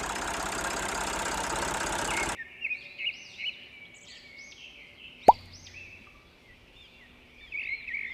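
A steady rushing hiss like spraying water for about two seconds that cuts off abruptly, followed by faint birds chirping. A single water-drop plop falls in pitch about five seconds in.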